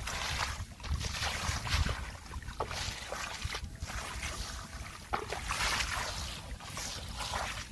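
Shallow muddy water sloshing and splashing in irregular swishes as the man works through a drying rice field after catfish, with wind rumbling on the microphone.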